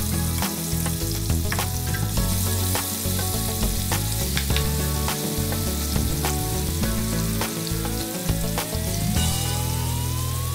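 Chopped tomatoes sizzling as they fry in hot oil in a nonstick frying pan, with scattered clicks and scrapes from a wooden spatula stirring them. Low steady tones and a slowly rising tone run underneath from about halfway in.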